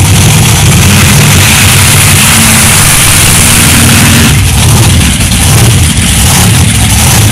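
Monster truck engine running loud and heavy, worked harder for the first four seconds or so, then easing back.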